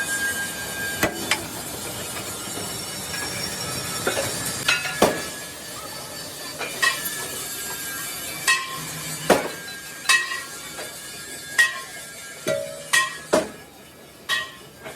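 A hammer striking mild steel sheet: more than a dozen irregular, sharp metallic clanks, each ringing briefly, over a steady workshop background.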